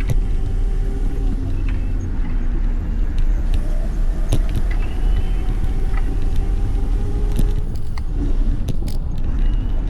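Strong low rumble of wind and road noise on a moving microphone, with a faint steady whine of an electric motor for most of the stretch and a few scattered clicks.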